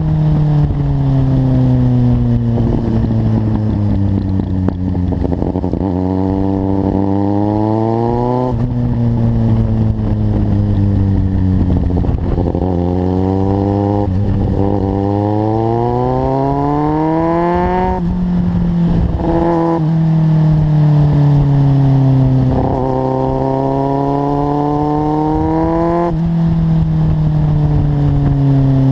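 Kawasaki Z750's inline-four engine through a carbon LeoVince aftermarket exhaust, ridden under way: the pitch climbs as it accelerates, drops sharply at each upshift about four times, and sinks more gradually as it slows in between.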